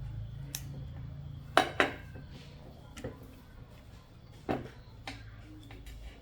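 Small metal tools and parts clinking and knocking as they are handled and set down, about half a dozen separate sharp clicks with the loudest pair close together about a second and a half in, over a low steady hum.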